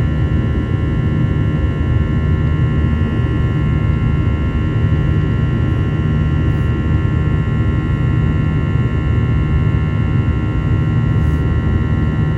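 Airbus A321-211's CFM56 jet engines heard inside the passenger cabin: a steady, loud low drone with several steady whining tones above it.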